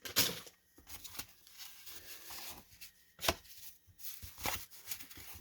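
A baseball card pack being opened and its cards handled: soft rustling of paper and card, broken by several sharp taps and snaps scattered through.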